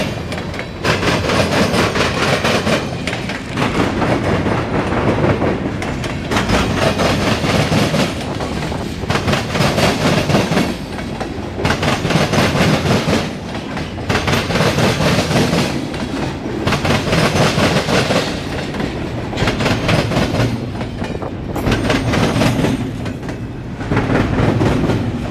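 CSX mixed freight train rolling past, its cars' wheels clattering over the rail joints. The sound swells and dips about every two seconds as car after car goes by.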